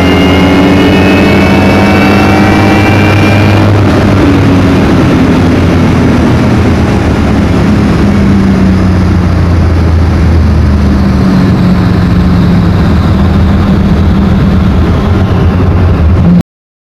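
Loud drag-car engine running hard, its pitch falling slowly over the whole stretch, with a high whine that fades out about four seconds in; the sound cuts off abruptly near the end.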